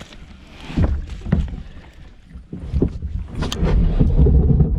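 Kayak being pushed off into the water: several knocks and scrapes of the hull, with a loud low rumble near the end.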